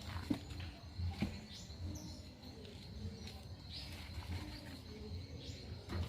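Birds chirping outdoors, with a few sharp knocks: one near the start, one about a second in and one at the end.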